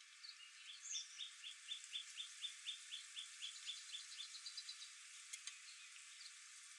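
A songbird singing: a series of about fifteen short, evenly spaced notes, about four a second, ending in a quicker, higher trill. A single faint click follows.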